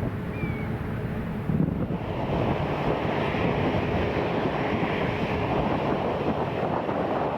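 Jet engine noise of an airliner on approach, mixed with wind buffeting the microphone. About two seconds in, the sound cuts to a louder, even rushing from the four GEnx engines of a Boeing 747-8i coming in to land.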